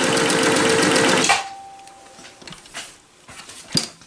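Singer Touch and Sew 758 sewing machine, rebuilt with a new motor, running as it stitches in reverse, then stopping about a second in. A few light clicks follow, and there is one sharper click near the end.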